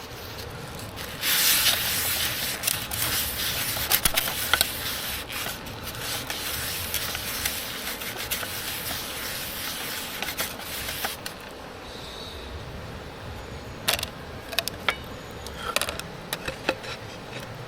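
Food sizzling in a hot pan over a campfire: a loud hiss full of crackling pops that starts about a second in and stops about ten seconds later, then a few scattered sharp pops.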